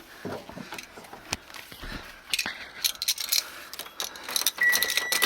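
Car keys jangling and clicking as they are handled. Near the end a steady high electronic tone starts and holds.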